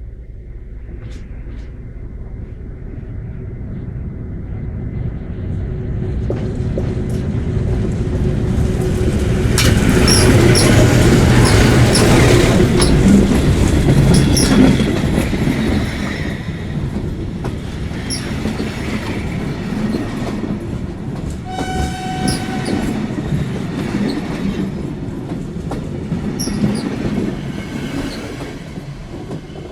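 An SM42 diesel-electric shunting locomotive hauling a passenger train past, its engine and the clattering wheels growing to a peak about ten to fifteen seconds in. The carriages follow with repeated high wheel squeals, and a short horn note sounds about two-thirds of the way through.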